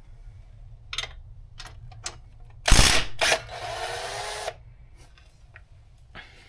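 Wrench work on a ball joint pinch bolt: a few light clicks, a loud metallic clank a little before the middle, then about a second of ratcheting, whirring rattle.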